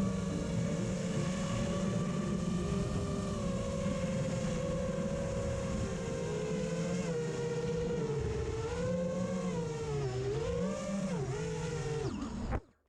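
FPV racing quadcopter's four Xing 2208 brushless motors and propellers whining steadily, the pitch dipping and rising with throttle changes from about eight seconds in, then cutting off abruptly near the end as the motors stop.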